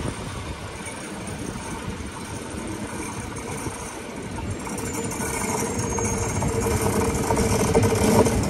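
A Rhaetian Railway electric locomotive and its train approach on the adjacent metre-gauge track, the rumble getting steadily louder as it nears. A steady hum joins in about halfway through.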